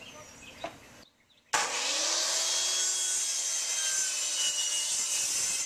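Power saw cutting through a plywood board: a steady, even cutting noise that starts abruptly about a second and a half in, after light handling sounds and a short silent gap.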